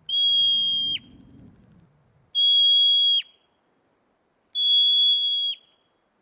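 An animal giving three long, steady, high whistle notes about two seconds apart, each ending in a quick downward drop.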